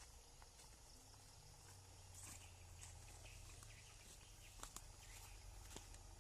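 Near silence: faint outdoor ambience with a low steady hum and a few faint ticks and short high chirps.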